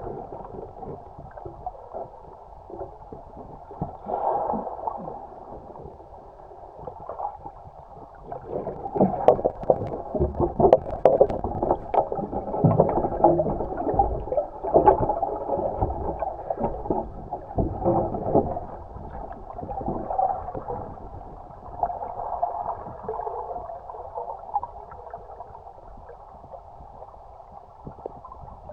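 Kayak paddling: paddle blades dipping and splashing in the water in irregular surges, busiest through the middle, heard muffled.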